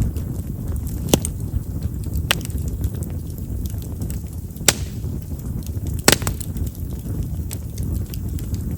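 Chestnut firewood burning in an open campfire: a steady low rumble with scattered crackles and four sharp pops, the loudest a little after six seconds in. Chestnut is known for popping because of the large vessels in its wood.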